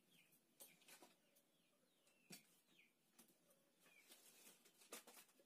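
Near silence, with a bird faintly repeating short falling chirps and a few soft clicks.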